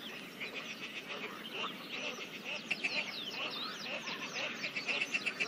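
Pond chorus of frogs calling in rapid pulsed trains and scattered croaks, with birds singing over them, a run of quick sweeping whistles in the middle.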